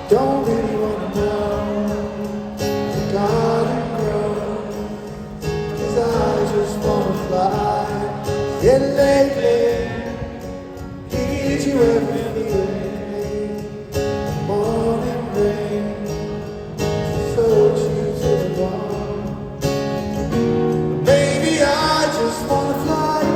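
Live rock band performing with singing over electric and acoustic guitars and drums.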